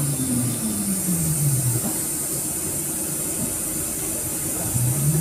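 A vehicle's engine running with road noise in slow street traffic; its note falls as it slows over the first two seconds and rises again as it speeds up near the end.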